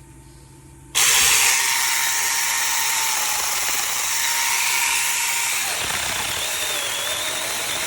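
Cordless mini chainsaw starting up about a second in and cutting through a branch. The motor whine is steady, then drops slightly in pitch a little past halfway as the cut goes on.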